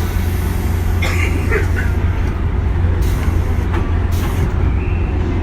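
JR West 201 series electric train heard on board: a steady low drone and rumble, with short hisses of compressed air about three and four seconds in.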